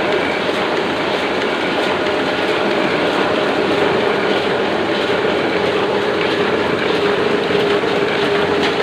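Oliver offset printing press running steadily at normal operating speed, a continuous mechanical clatter with a steady hum.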